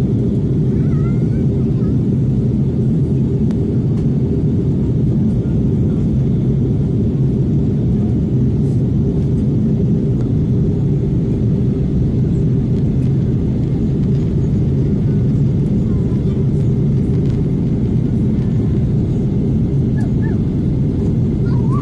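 Steady, unchanging low rumble of an airliner's engines and airflow heard inside the cabin during the descent, with a couple of steady droning tones in it.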